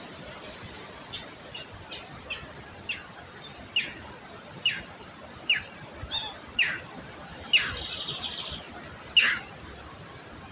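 A bird calling in a series of about a dozen short, sharp notes, each one sliding steeply downward in pitch, repeated at uneven intervals of roughly half a second to a second and a half.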